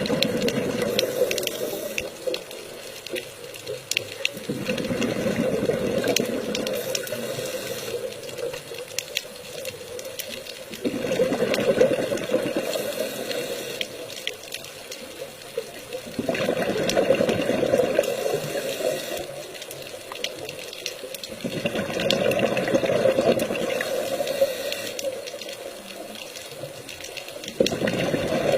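Water rushing in repeated surges, each lasting a few seconds and swelling again about every five to six seconds.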